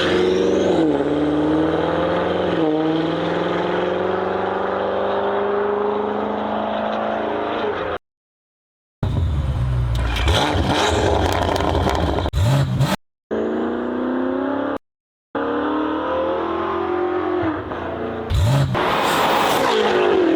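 BMW F90 M5's 4.4-litre twin-turbo V8 through an aftermarket exhaust, accelerating hard with its pitch climbing and dipping briefly at two gear changes. This is followed by several short cut-together clips of the engine revving, separated by brief gaps of silence.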